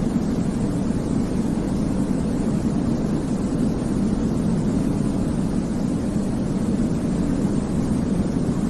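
Steady sleep-aid white-noise track, a deep, even rumble with most of its weight low down and only a thin hiss above, gently swelling and easing without any break.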